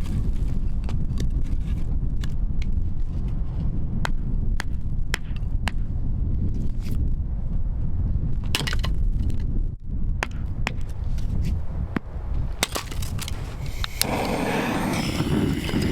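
Irregular sharp cracks and snaps of firewood being broken up for kindling, over a steady low rumble of wind on the microphone. About two seconds before the end a louder rushing noise takes over.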